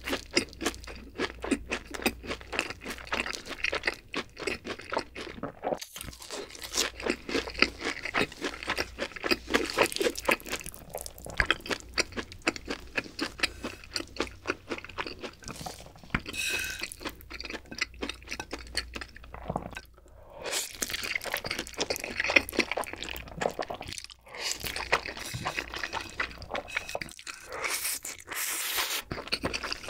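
Close-miked eating sounds: crunching and chewing of fried cheese balls, then chewing of saucy black-bean instant noodles, with many quick crunchy mouth clicks.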